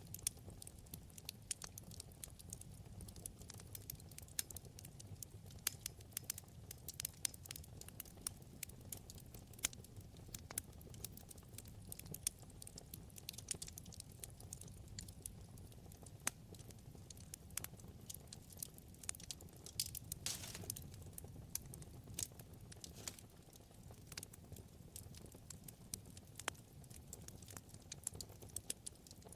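Wood fire burning in a fireplace: irregular sharp crackles and pops over a low, steady flame rumble, with a brief hiss about twenty seconds in.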